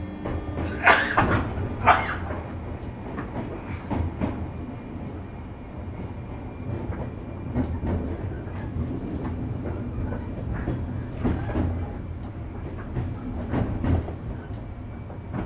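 JR West 201 series electric train running, with a steady low rumble and its wheels clacking over rail joints: two sharp clacks about one and two seconds in, then lighter knocks every second or so.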